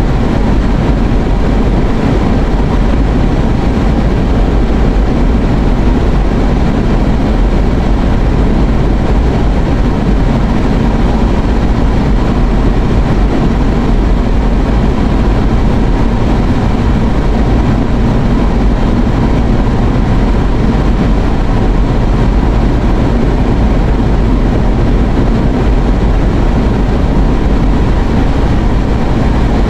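Steady road and engine noise inside a moving car's cabin: an even, unbroken rumble with no change in level.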